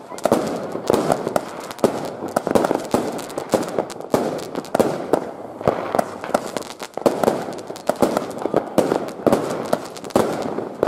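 Fireworks going off in a dense, irregular run of bangs and crackles, shots launching and bursting one after another with no pause.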